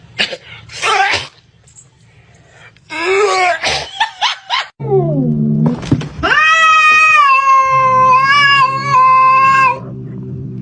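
A cat yowling. Short scratchy noises come first, then one long drawn-out caterwaul of about three and a half seconds in the second half, over a steady low hum.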